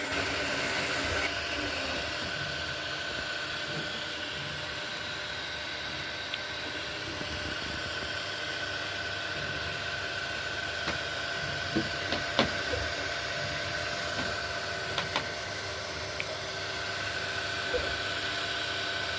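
Anycubic Kobra 3 3D printer running a print in silent mode: a steady hum of cooling fans and stepper motors holding a few fixed tones, with a handful of faint clicks partway through.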